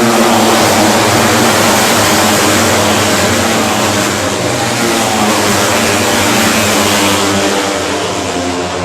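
Loud, steady engine noise with a broad rushing hiss over it, easing slightly about seven seconds in.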